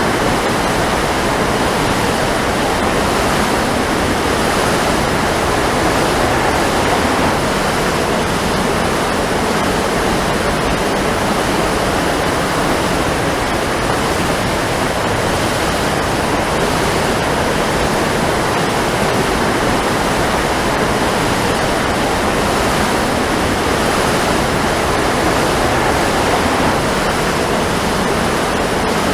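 Waterfall: a steady rush of falling water, constant and unbroken.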